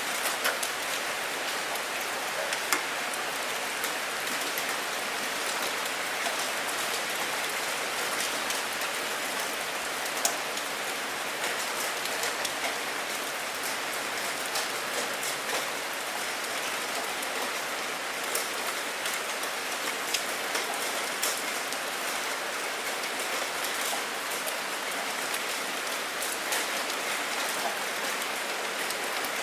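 Steady rain falling, a constant patter with scattered sharper drops striking close by.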